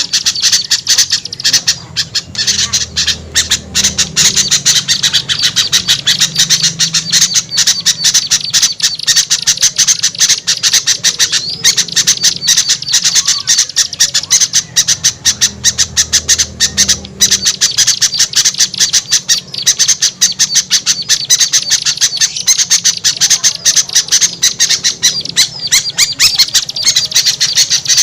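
Bird-lure recording of many small birds chattering and scolding at once, a dense, unbroken stream of rapid, sharp, high notes meant to call small birds down.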